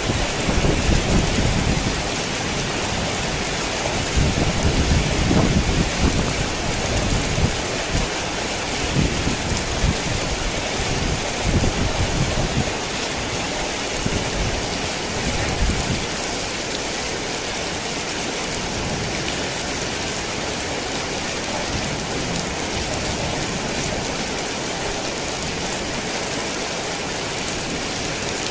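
Heavy rain pouring steadily, with low rolling thunder rumbling in uneven swells through the first half before dying away, leaving only the rain.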